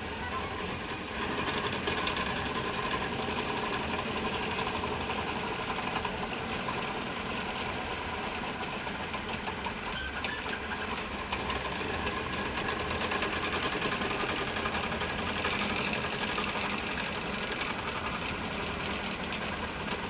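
3D printer running mid-print, its stepper motors whirring and buzzing steadily as the print head moves.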